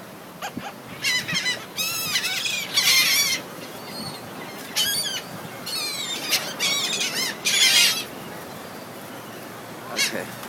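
Birds calling in clusters of rapid, repeated high-pitched notes, several voices overlapping, with short quieter gaps between the clusters.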